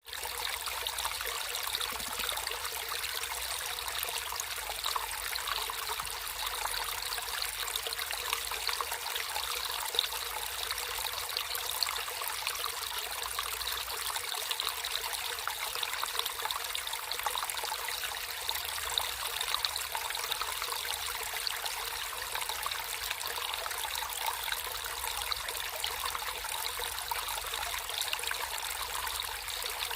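Water flowing and trickling over stones in a small natural stream, a steady bright babbling with many small splashes and no deep rush.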